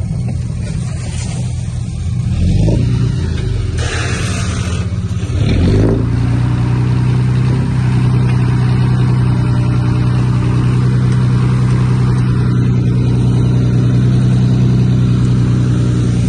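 Heavy diesel engine of an earthmoving machine working under load. It revs up twice in the first six seconds, then holds steady at high revs, with a brief rush of noise about four seconds in.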